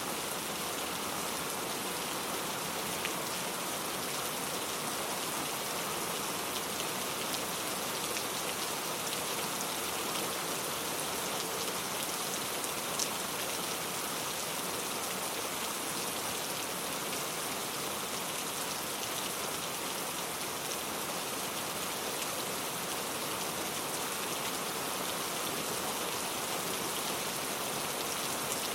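Steady rain falling and pattering on a surface, with faint scattered drop ticks.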